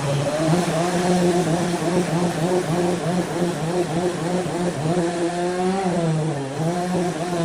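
Chainsaw engine running at high speed as it cuts timber, its pitch wavering and sagging briefly near the end as the chain bites harder into the wood.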